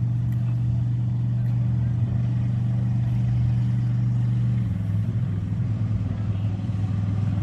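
An engine running steadily with a low hum, dropping a step lower in pitch about two-thirds of the way through.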